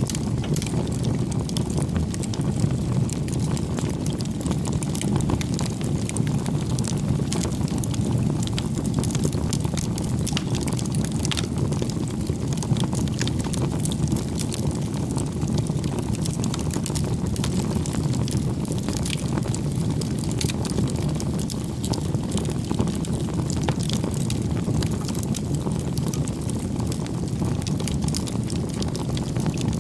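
Campfire burning: a steady low rush of flames with frequent small crackles and pops of burning wood.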